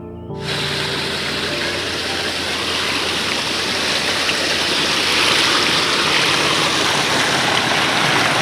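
A brook's water rushing in a steady, even flow, starting abruptly about half a second in as a passage of music cuts off.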